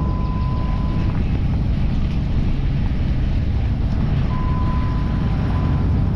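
Car driving, a steady low rumble of engine and road noise. A faint steady high tone sounds briefly at the start and again about four seconds in.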